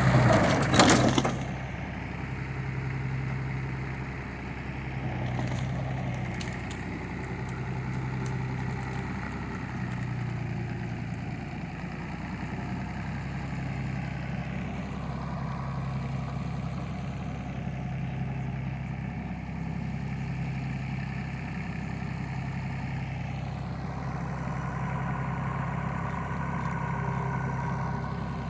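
An engine running steadily at idle, with a low hum that swells and eases every second or two. A loud clatter comes in the first second.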